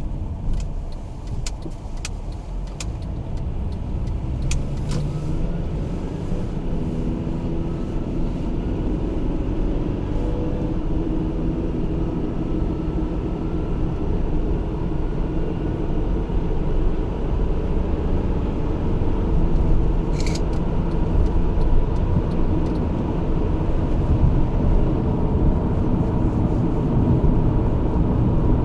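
Honda Odyssey minivan driving: a steady low engine and road rumble, with the engine note rising slowly as it picks up speed. A few sharp ticks sound in the first five seconds and one sharp click about twenty seconds in.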